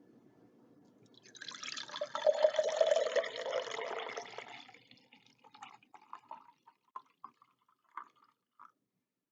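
Pineapple juice poured from a bottle into a glass for about four seconds, followed by a few last drips over the next several seconds.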